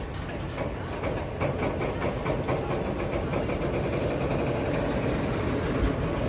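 Diesel locomotive engine running steadily, a low rumble that swells slightly about a second in, as the train gets ready to depart.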